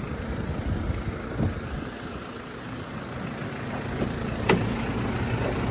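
Diesel engine of a Mitsubishi Fuso crew-cab dump truck idling with a steady low rumble, with one sharp click about four and a half seconds in.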